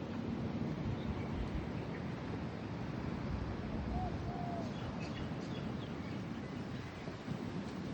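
Steady low outdoor rushing noise with a few short bird chirps about four to five seconds in.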